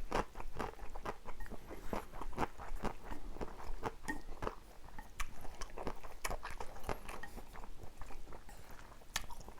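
Close-miked eating of stir-fried instant noodles: repeated wet chewing and mouth smacks, an uneven string of short clicks.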